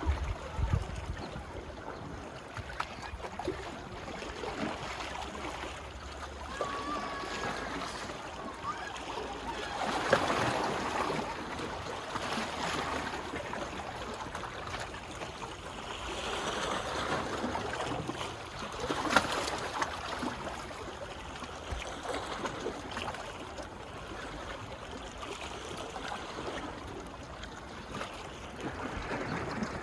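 Small waves lapping and washing on a sea beach, a steady watery wash with little splashes. It swells louder about ten seconds in and again around seventeen seconds.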